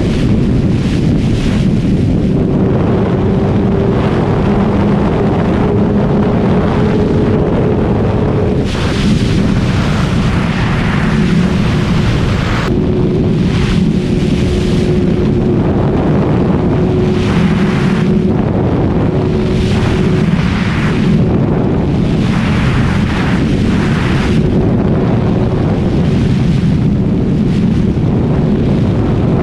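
Kawasaki ZX-6R 636's inline-four engine running at a fairly steady pitch while riding. It is heavily covered by wind buffeting the microphone, which swells and fades every second or two.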